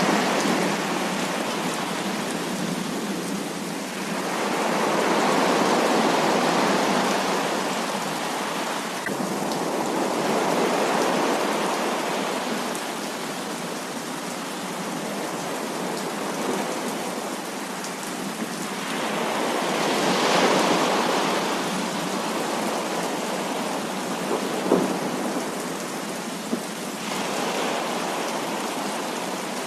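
Heavy rain pouring steadily, its hiss swelling and easing every few seconds, with a couple of sharp drip ticks near the end.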